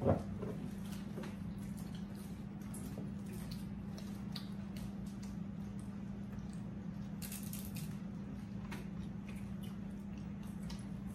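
Wet chewing and small clicking mouth sounds of a person eating cheese dip, over a steady low hum.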